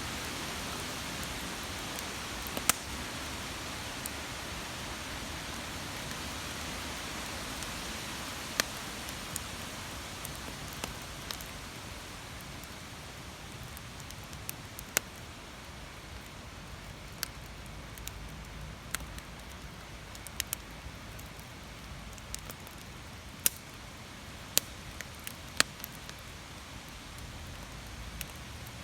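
Campfire crackling with sharp, irregular pops over a steady rush of wind.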